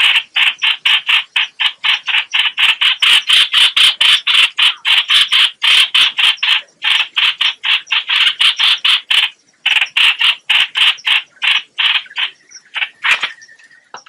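Lure recording of the 'hoạch hoạch' bird's call: a fast, even run of short rasping notes, about four or five a second, with a brief break about nine and a half seconds in and the notes thinning out near the end.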